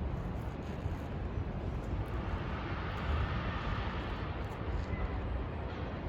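Outdoor city background noise: a steady low rumble with a broad hiss that swells about two seconds in and fades again near the end.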